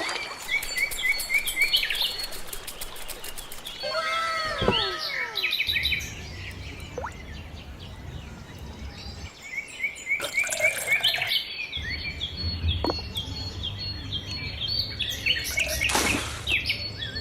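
Birds chirping and calling over and over, with a low steady hum underneath through much of the second half.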